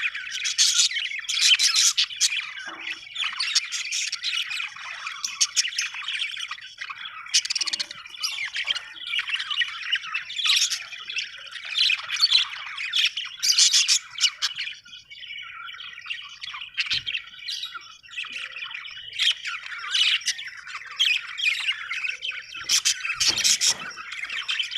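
Budgerigars chattering and squawking continuously, several birds calling at once with rapid warbling and sharper squawks every second or so.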